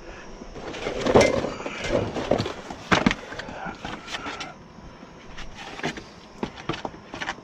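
Clicks, knocks and rattles of the new power window regulator and motor assembly and its hardware being handled. The loudest knocks fall about a second and three seconds in, with scattered lighter clicks after that.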